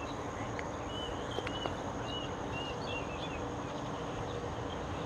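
A bird chirping: a string of short, quick notes between about one and three seconds in, over a steady background hum and a constant high whine.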